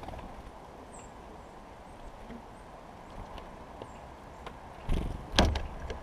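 A tufted titmouse hopping and pecking in a pile of sunflower seeds right against the microphone, giving two loud knocks near the end. Faint, short, high bird chirps sound in the first few seconds.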